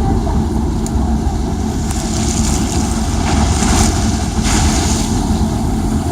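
Boat engines running in a steady low rumble, with wind buffeting the microphone. Water washing surges twice, about two seconds in and again about four and a half seconds in.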